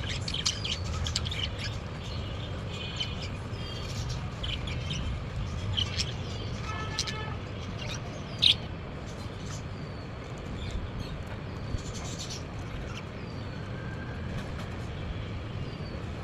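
Budgerigars chirping and chattering in short, high notes and trills, with one sharp click about eight and a half seconds in, over a steady low rumble.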